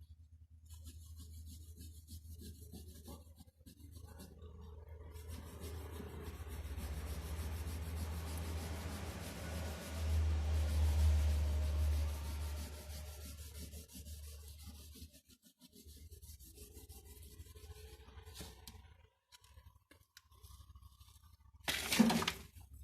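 A drawing tool rubbing back and forth on paper in shading strokes, over a low steady hum. The rubbing swells to its loudest about halfway through, then fades, and a single sharp knock comes near the end.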